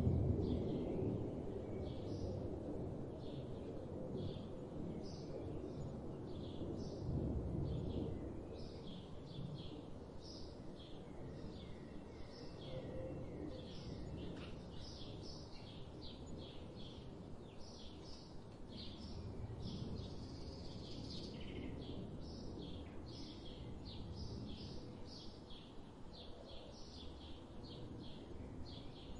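Small birds chirping in quick, short repeated notes, many calls a second. Underneath runs a low rumble that is loudest near the start and again about seven seconds in.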